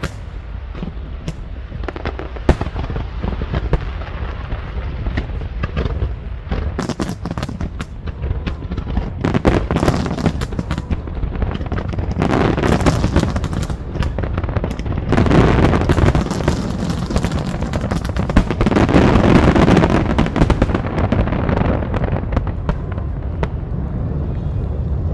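Aerial fireworks display bursting and crackling in rapid volleys over a steady low rumble, with the densest, loudest barrages in the second half.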